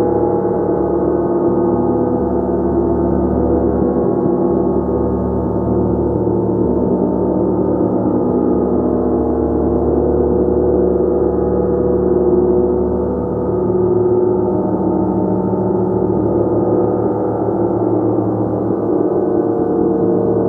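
Gong played continuously, its dense overlapping tones sustained in a steady shimmering wash without distinct separate strikes.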